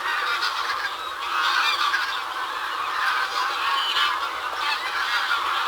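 A flock of geese honking, many calls overlapping without a break.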